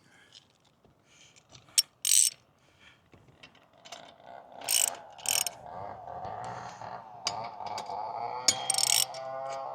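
Metal clicks and ratcheting from hex beam antenna mast hardware being worked by hand, joined about four seconds in by a steady, wavering metallic squeak as the mast is turned in its clamp to re-aim the antenna.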